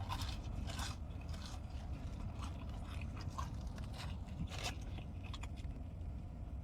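Close-miked eating sounds: chewing with irregular soft crunches and mouth clicks over a steady low background hum.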